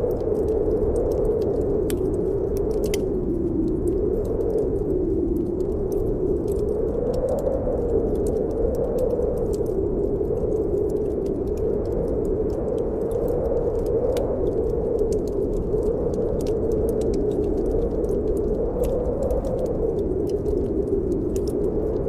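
Snowstorm wind howling, its pitch slowly wavering up and down, with a wood fire in a fireplace crackling in scattered sharp pops.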